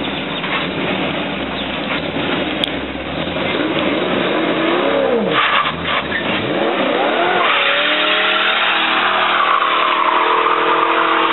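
327 small-block V8 in a 1955 Chevy pickup revved up and down several times, then held at high revs for a few seconds in a burnout, with tyre squeal over the engine. It has no posi rear end, so a single rear tyre is spinning.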